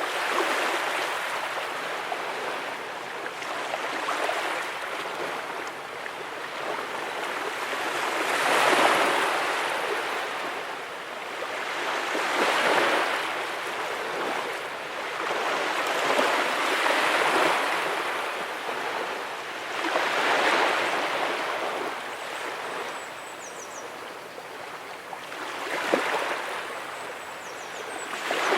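Ocean waves breaking and washing up the beach, a rushing surge that swells and falls back about every four seconds.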